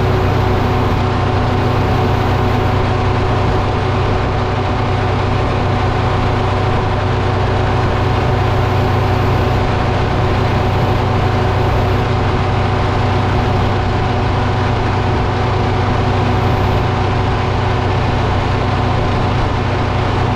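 A diesel engine running at a steady speed, its pitch and loudness unchanging, with no rise or fall of load.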